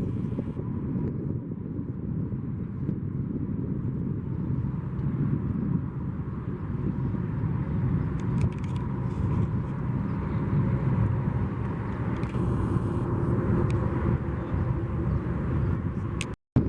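Steady low outdoor rumble with no clear single source, cutting out for a split second near the end.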